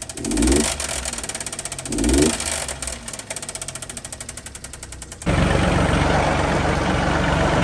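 A small mini-truck engine running with a fast, even pulse and blipped up twice. About five seconds in, it cuts abruptly to a louder, steady running noise.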